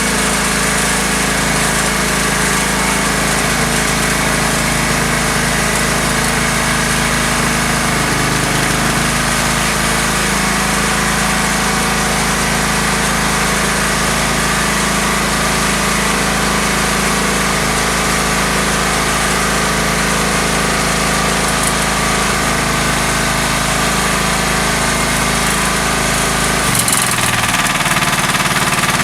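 Small welder generator's engine running at a steady speed with an even drone. The note shifts near the end.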